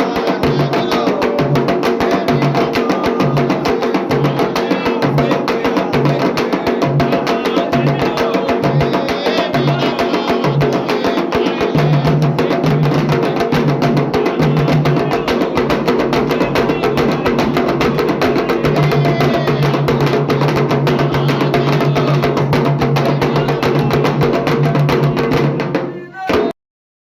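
Candomblé drumming and percussion, with fast, dense strikes over a low beat that repeats about twice a second and then runs on steadily. It cuts off suddenly near the end.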